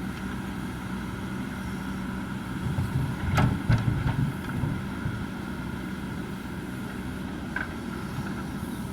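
Heavy construction machinery's diesel engine running steadily, swelling louder for about a second and a half a little past three seconds in, with a sharp knock at the start of the swell.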